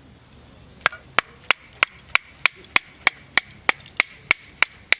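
Knife chopping on a wooden cutting board: sharp, even strokes at about three a second, starting about a second in.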